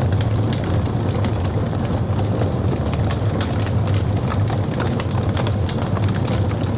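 Fire crackling: frequent small, sharp pops and snaps, irregularly spaced, over a steady low rumble of the flames.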